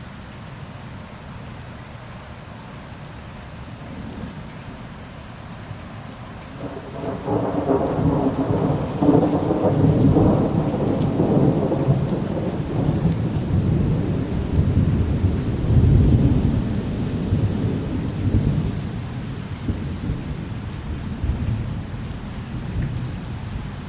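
Steady rain, then about seven seconds in a long rolling thunder rumble that builds, swells again partway through, and slowly fades back into the rain.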